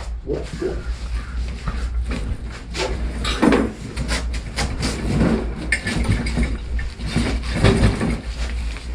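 Handling noise from unpacking motorcycle exhaust parts: cardboard boxes and packing rustling and shifting, with irregular knocks and scrapes, over a low steady hum.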